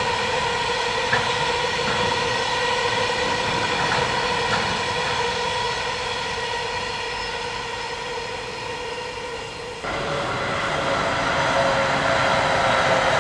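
Freight train of tank wagons rolling past: a steady rumble of wheels on rail with a few light clacks over rail joints and a high steady ringing whine from the wheels, slowly fading. About ten seconds in it gives way abruptly to a louder electric commuter train passing close by.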